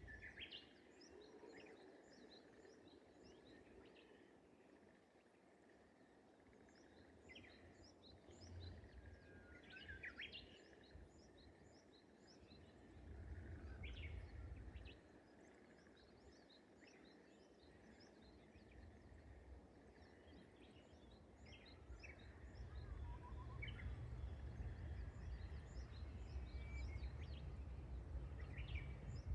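Faint outdoor morning ambience: scattered bird calls over a constant speckle of tiny high chirps. A low rumble swells briefly about halfway through and again for the last several seconds.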